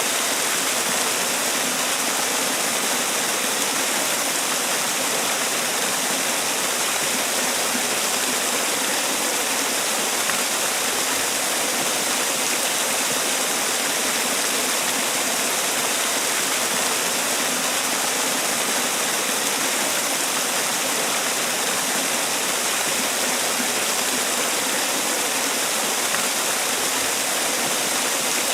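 Man-made waterfall: water falling and splashing in a steady, unbroken rush.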